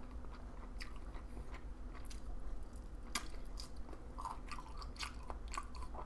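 Close-miked chewing and mouth sounds of someone eating soy-sauce-marinated raw shrimp, with irregular sharp clicks and smacks.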